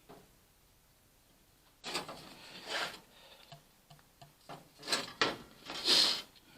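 Sheet-metal panel being handled and fitted: several short scraping rubs with a few sharp clicks, starting about two seconds in.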